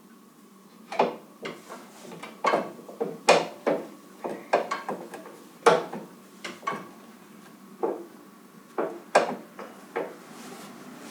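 Hand tools and metal parts knocking and clinking in an irregular string of sharp knocks, starting about a second in and thinning out near the end.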